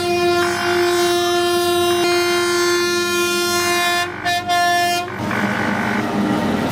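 Train air horn sounding a long, steady blast. It breaks off about four seconds in, gives one short final blast, and stops about a second later, leaving a rumbling noise.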